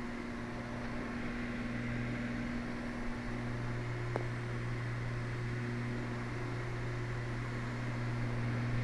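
Twin Cessna 320's piston engines running steadily in flight, an even drone heard inside the cockpit, with a faint click about four seconds in. The right engine has just been found to be the one vibrating.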